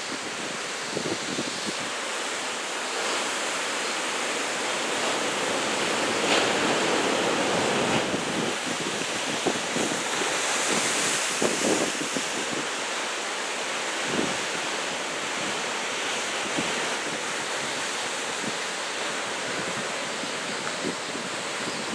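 Ocean surf breaking and washing ashore in rough typhoon swell, with wind buffeting the microphone. The surf swells louder for a few seconds about halfway through.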